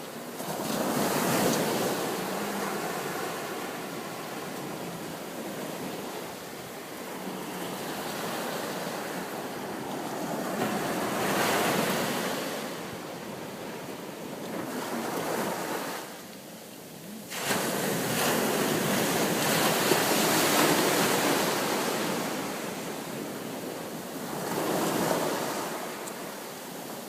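Ocean surf washing onto a shore, swelling and fading in slow surges several seconds apart, with a brief lull past the midpoint.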